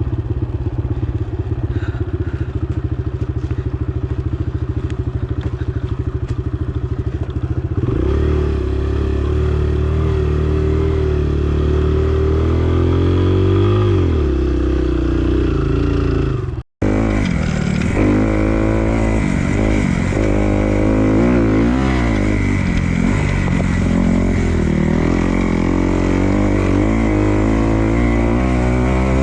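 Dirt bike engine running steadily at first, then louder about eight seconds in and revving up and down repeatedly as the bike is ridden round the track. The sound cuts out for an instant a little past halfway.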